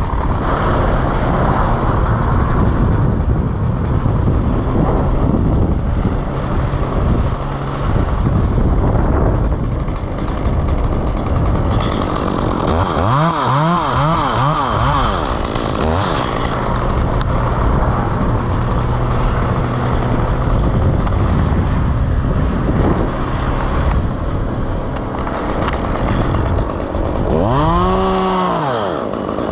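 Chainsaw running throughout, revved up and back down twice: once around the middle and once near the end.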